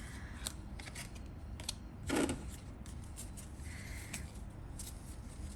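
Small tarot cards being handled and leafed through: light clicks and rustles of card stock, with one louder brush about two seconds in.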